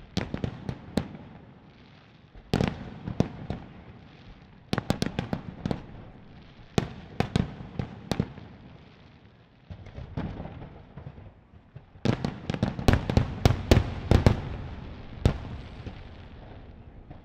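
Fireworks display: aerial shells bursting in irregular volleys of sharp bangs, building to a dense barrage of rapid bursts about twelve to fifteen seconds in.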